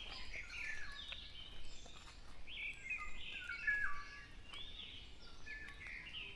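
Several songbirds singing at once in a dawn chorus, including a black-naped oriole's whistled notes that step and glide in pitch. A low, steady rumble of distant road traffic runs underneath.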